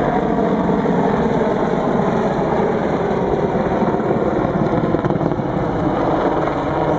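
Boeing AH-64 Apache attack helicopter flying a steep nose-up, nose-down display manoeuvre: a steady, rapid rotor blade chop over the run of its twin turboshaft engines.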